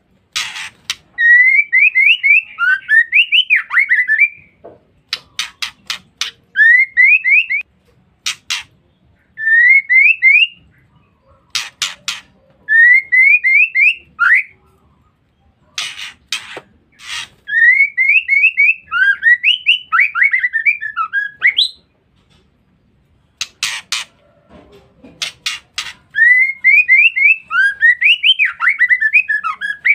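Female white-rumped shama (murai batu) giving its chattering ngeriwik call: a few harsh rasps, each followed by a quick run of short rising chirps, repeated in phrases every few seconds.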